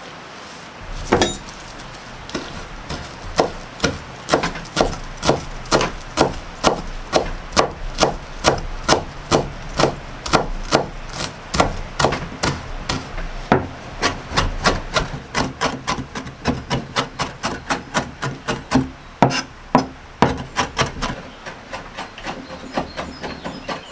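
A knife chopping on a wooden cutting board in a steady rhythm, about two to three strokes a second, starting about a second in.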